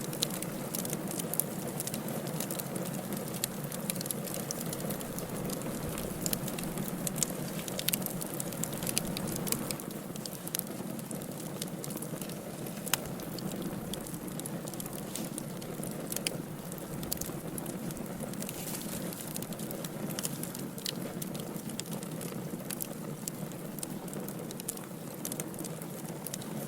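Firewood burning in a fireplace: a steady hiss with frequent sharp crackles and pops, one louder pop about halfway through.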